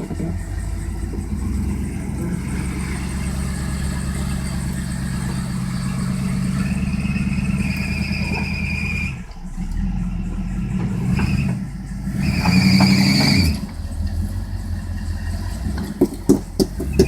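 Jeep engine running with a steady low note, revving up twice, a little before the middle and again about three-quarters of the way through, each time with a high whine rising along with it. A few sharp knocks come near the end.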